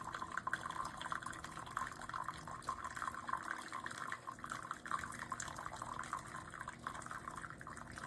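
Keurig K-Mini single-serve brewer dispensing hot water into a mug, a steady trickling, splashing stream of liquid with no pod in the machine.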